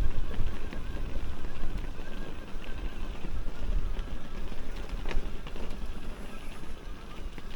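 Wind rumbling on the microphone over the rattle and clicks of an electric mountain bike being ridden over rough trail.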